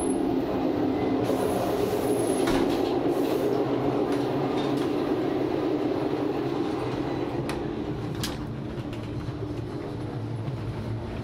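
Moving Alaska Railroad passenger train heard from the open gangway between cars: a steady rumble of wheels on rail with a few sharp clicks and knocks. It is loudest in the first half and eases toward the end as the next car is entered.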